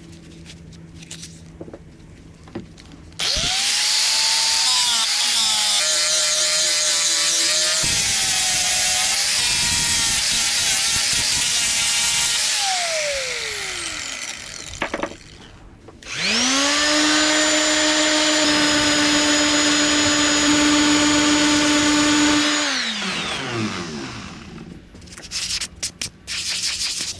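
An electric power tool's motor spins up, runs for about nine seconds with a harsh hiss of cutting or sanding over its whine, and winds down. It starts again a couple of seconds later and runs for about six seconds with a steady whine and little cutting noise, then winds down.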